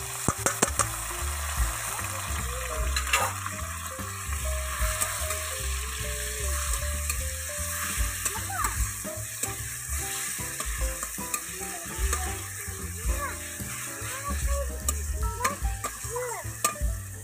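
Sliced onions and a spoonful of paste sizzling in hot oil in an aluminium kadai, with a flat metal spatula scraping and clicking against the pan as they are stirred.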